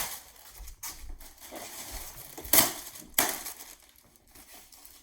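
Packaging being handled and pulled off a new engine: irregular rustling and crunching, with two sharp knocks about two and a half and three seconds in.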